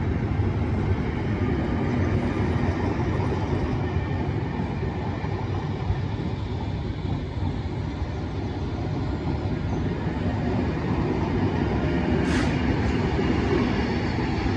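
Locomotive-hauled Network Rail test train of yellow coaches running past, a steady rumble of wheels on rail. It swells slightly near the end as the rear class 73 locomotive passes.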